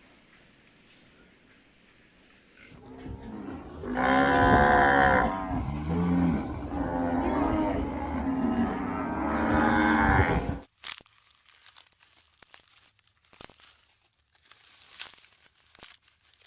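Cow mooing: a run of long, loud calls over about eight seconds that cuts off abruptly, followed by faint scattered clicks and crunches.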